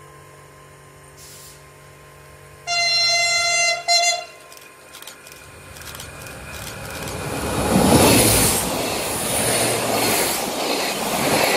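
DB class 648 diesel multiple unit sounding its horn as it approaches, one long blast then a short one, then running past close by, its noise building to a peak about two-thirds of the way through and staying loud.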